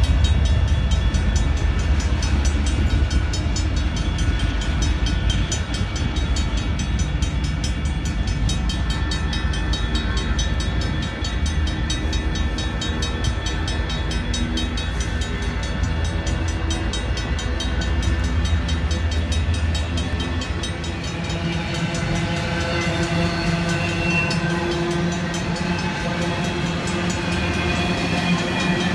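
Railroad crossing warning bells, a Griswold mechanical bell ringing together with an electronic crossing bell, striking in a fast, steady rhythm while a train rumbles through the crossing. The rumble fades about two-thirds of the way in, and held tones come in for the last several seconds.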